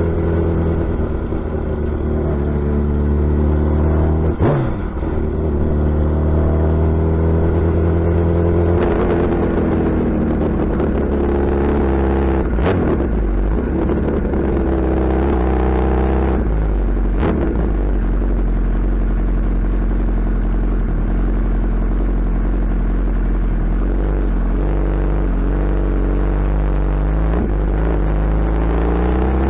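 Suzuki Hayabusa inline-four motorcycle engine and exhaust running under way, its note rising and falling in pitch several times with throttle and speed changes, with a few brief knocks.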